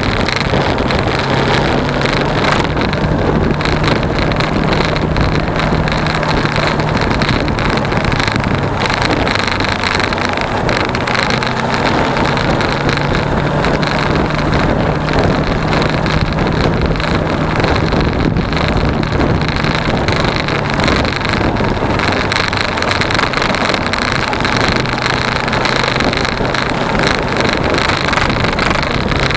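Suzuki V-Strom 250's parallel-twin engine running steadily under way, its low hum mixed with loud, steady wind rush on the action camera's microphone.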